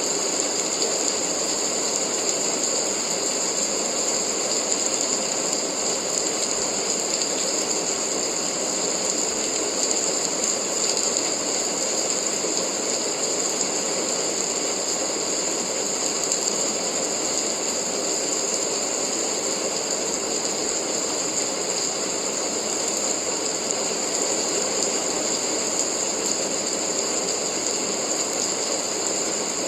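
Steady rain, a dense, even patter of drops that holds the same intensity throughout.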